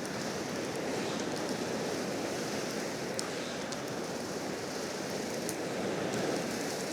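Steady outdoor noise, with a few faint ticks near the middle.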